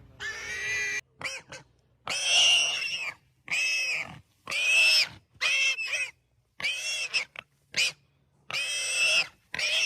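An animal's repeated high-pitched cries: about ten short calls, each under a second, with brief silences between.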